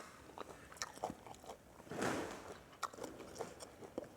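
A person chewing food close to the microphone, with soft crunches and small clicks and a brief swell of noise about two seconds in.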